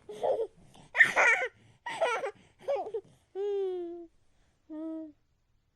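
A high, childlike voice laughing in a run of short giggles, loudest about a second in. It ends with two short held notes.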